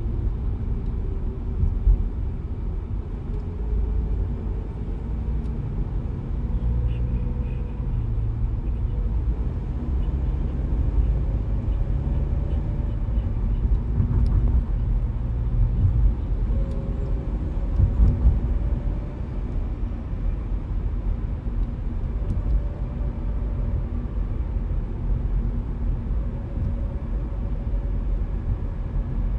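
A car driving along the road: a steady low rumble of tyres and engine, with a few brief louder bumps.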